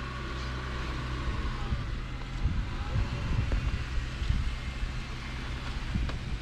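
Off-road 4x4's engine running low and steady while crawling over rock, with irregular low thumps and knocks in the middle.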